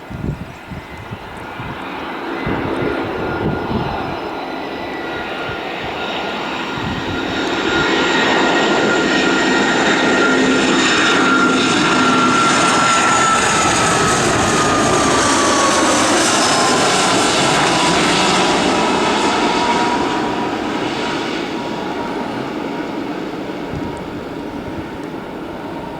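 Airbus A320 twin-jet airliner passing by while landing. Its engine noise builds to a peak, and the engine whine slides down in pitch as it goes past, then the noise eases off near the end.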